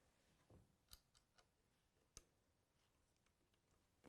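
Near silence broken by a few faint clicks, the clearest about one and two seconds in: small metal screws being handled and set into a router's copying ring.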